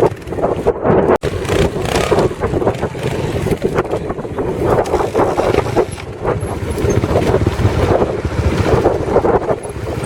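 Strong wind buffeting the microphone, mixed with a motorcycle engine running unevenly, with a brief dropout about a second in.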